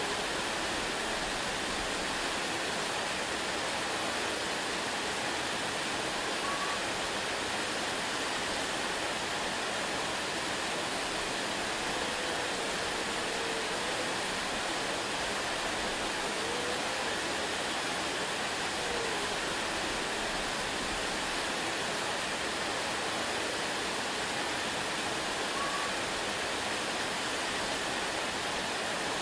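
Waterfall: falling water making a steady, even rush with no change in level.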